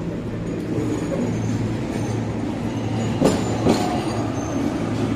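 Steady low mechanical hum, with two sharp clacks about half a second apart a little past halfway through.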